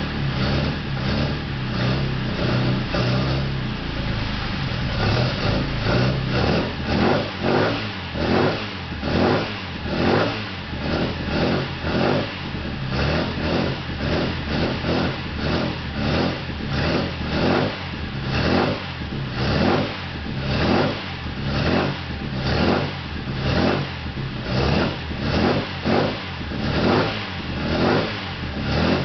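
The rebuilt BMC A-series four-cylinder engine of a 1962 MG Midget race car, higher-compression with a redone cylinder head and new pistons, running with the bonnet open. From about four seconds in its speed rises and falls in a steady rhythm about once a second.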